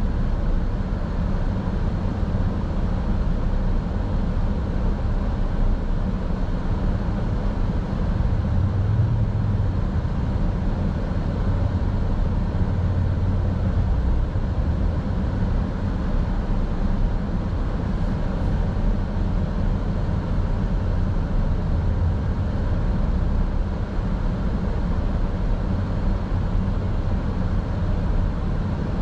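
Steady road noise of a car driving: a constant low rumble of tyres and engine.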